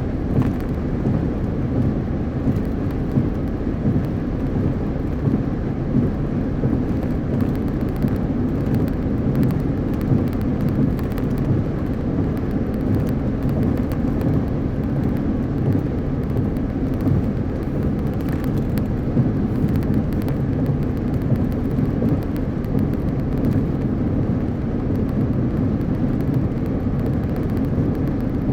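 Car driving at highway speed: steady road and tyre noise with a low, even rumble.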